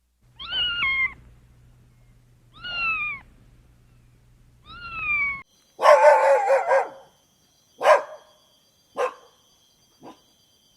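A cat meowing three times, each meow falling in pitch. Then a dog barking: a longer, loud run of barks, followed by three short barks, each fainter than the last.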